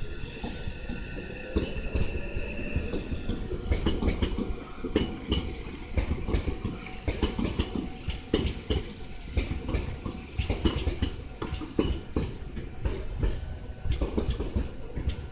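Meitetsu μSky (2000 series) electric train pulling out and running past. A motor whine rises in pitch over the first couple of seconds, then a long run of wheel clacks sounds over the rail joints.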